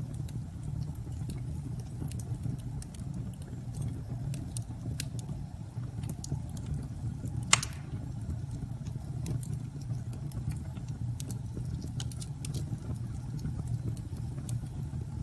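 Wood fire crackling with scattered snaps and one louder pop about seven and a half seconds in, over a steady low rumble of storm wind.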